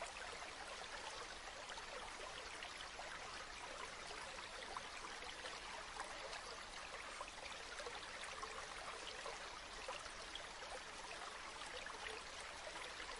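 River water flowing steadily: an even babble and trickle of a stream.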